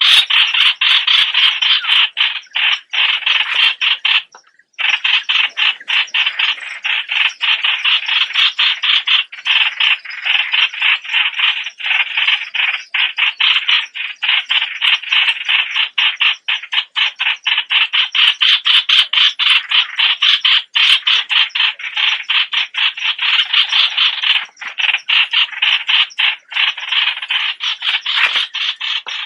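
A nok plod suan bird calling in a continuous, rapid, stuttering chatter, a fast run of clicky notes. It breaks off briefly about four and a half seconds in, then carries on.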